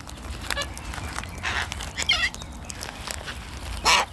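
Wild cockatoos feeding on seed: a short warbling call about two seconds in and a brief harsh screech near the end, over scattered light clicks and taps.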